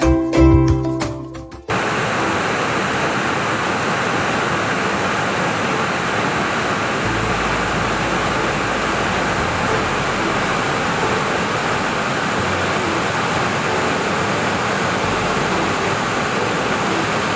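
Music stops abruptly about a second and a half in. It gives way to the steady rush of flowing water in a mountain valley stream.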